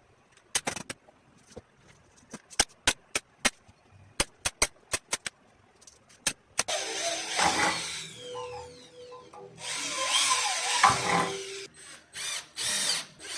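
About a dozen sharp clicks at uneven spacing over the first six seconds. Then a power tool runs in two spells, the first about a second and a half long and the second about two seconds.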